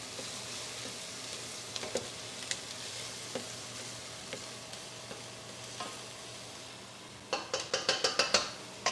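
Food frying in a pan with a steady sizzle and a few light clicks. Near the end comes a quick run of sharp clicks and taps.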